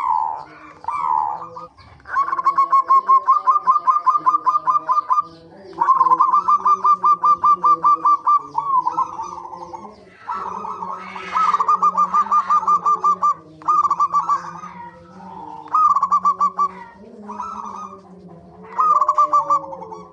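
Zebra doves (perkutut) cooing: runs of quick, evenly repeated staccato notes, several runs of two to three seconds, then shorter phrases toward the end.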